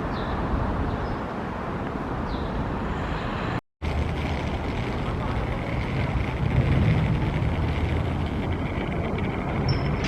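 Hiroshima Electric Railway streetcar and street traffic at a tram stop, a steady rumble. It breaks off in a brief moment of silence about a third of the way in, and from about halfway a deeper rumble builds up.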